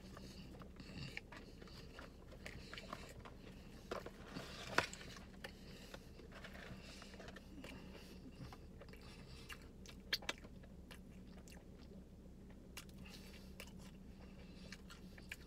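A person chewing and biting food, a fried chicken sandwich and fries, with soft mouth noises and a few short sharp clicks, over a steady low hum.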